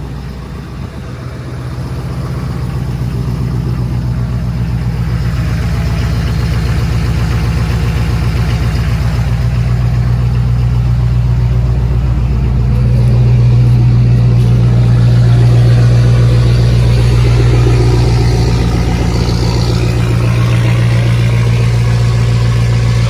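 Ford 6.7 L Power Stroke turbodiesel V8 with a straight-piped exhaust, running at idle just after a cold start in freezing weather. It is a loud, steady, deep exhaust drone that grows louder over the first dozen seconds and then holds.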